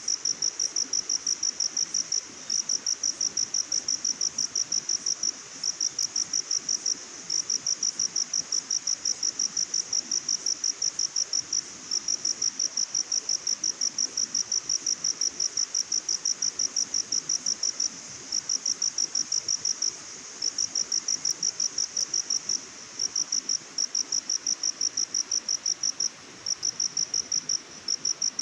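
Cricket chirping in rapid, evenly spaced high-pitched pulses with a few short breaks, over a faint steady hiss of forest ambience.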